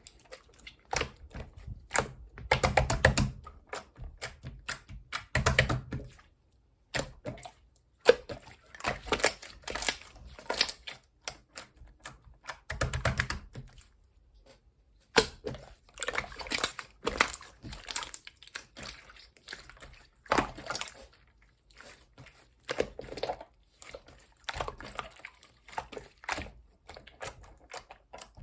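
Slime being handled, squeezed and poked: dense runs of crisp clicking and crackling as trapped air pops, with a few heavier squelching presses.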